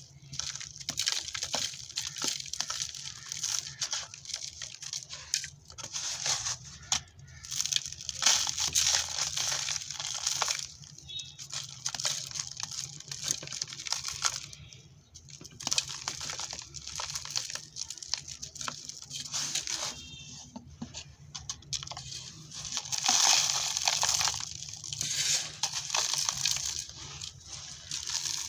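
Dry, dusty red dirt and sand-cement chunks crumbling and crunching in irregular runs of crisp crackle with short pauses between them, loudest around a third of the way in and again a little past the middle.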